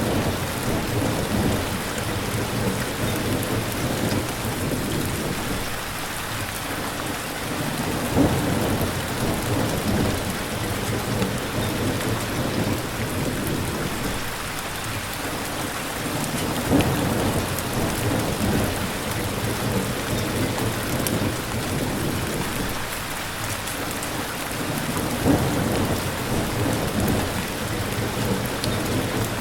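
Steady heavy rain with low rolls of thunder that swell and fade several times, about every eight or nine seconds.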